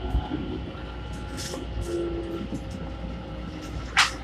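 Keikyu 1000 series electric train standing at a platform: a steady low hum with a few short hisses, and one sharp, loud burst of noise about four seconds in.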